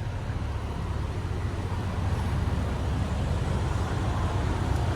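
Diesel semi-truck engine idling steadily, a low rumble with a haze of outdoor noise over it.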